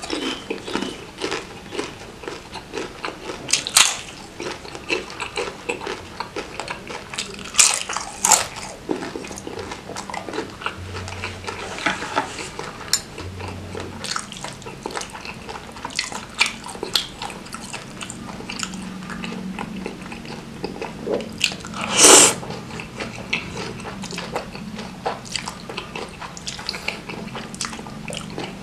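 Close-miked eating: crunching bites of a fried wonton cracker (kerupuk pangsit) soaked in chili broth, then wet chewing of noodles and meatballs. The chewing is a steady run of small clicks, with a few louder crunches at about 4, 8 and 22 seconds.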